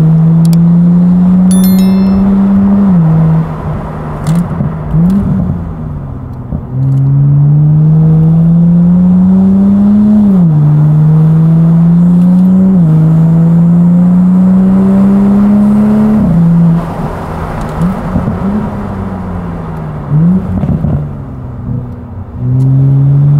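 Toyota GR Supra's turbocharged 3.0-litre inline-six, through a titanium single-exit exhaust, accelerating through the gears: the engine note climbs steadily, drops sharply at each upshift, then climbs again. Twice it falls back to a quieter, easier note between the pulls, about 3 s and about 17 s in.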